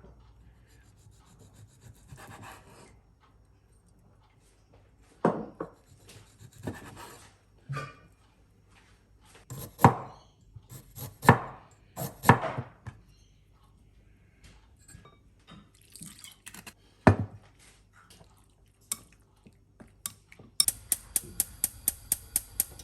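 Household handling sounds: scattered knocks, clinks and rustles of objects being moved. Near the end comes a quick, even run of about a dozen taps.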